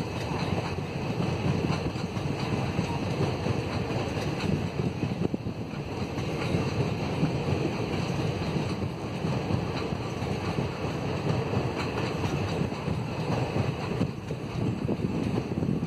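Passenger coaches of a train rolling past on the track, a steady rumble of wheels on rail, mixed with wind buffeting the microphone.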